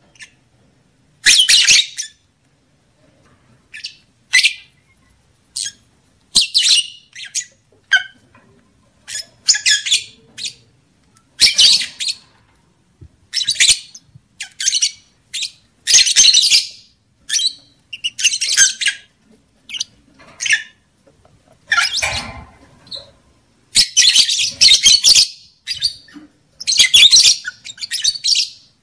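Lovebird giving a string of shrill, harsh squawking calls in short bursts about once a second, with a longer run of calls near the end.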